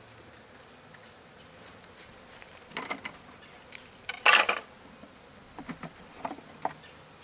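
Honey bees buzzing around an opened colony, with scattered metal clinks and scrapes of tools against the wood. The loudest is a short clattering scrape about four seconds in.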